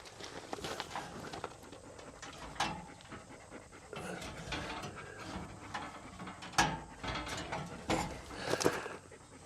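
Close, steady panting breaths, broken by a few sharp knocks, the loudest about two and a half, six and a half, eight and eight and a half seconds in.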